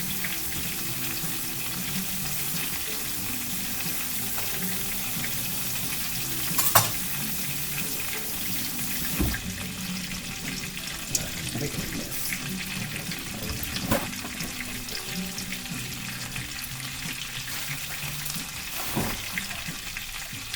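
Panko-breaded chicken searing in hot oil in a skillet, a steady sizzle. A tap runs for roughly the first half and stops, with a few clicks and knocks.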